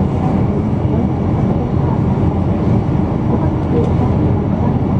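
Steady, loud cabin rumble inside a Boeing 777-200 airliner: engine and airflow noise, heaviest in the low range and unchanging throughout.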